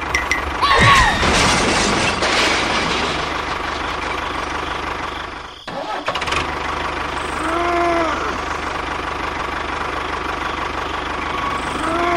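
Small motor of a DIY mini tractor running steadily, briefly dropping out about halfway through. Two short rise-and-fall tones are heard, one about two-thirds of the way in and one at the end.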